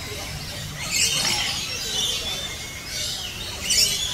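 Birds calling, high-pitched chirps and squawks in several bursts: about a second in, around two seconds, and louder near the end.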